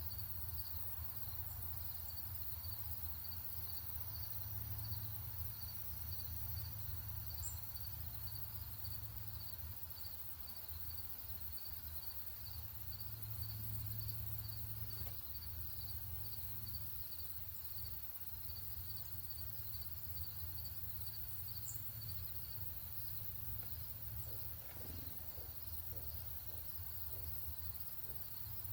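Insects chirping in a steady, fast, even rhythm over a constant low rumble, with two short high bird chirps, one about seven seconds in and one about twenty-two seconds in.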